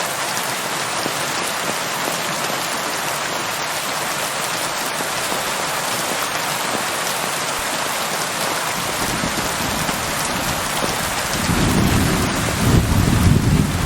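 Steady rain falling, with thunder rumbling in from about nine seconds and growing much louder near the end.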